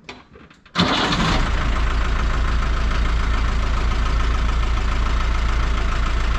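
Ford Transit van's engine starting about a second in and then idling steadily.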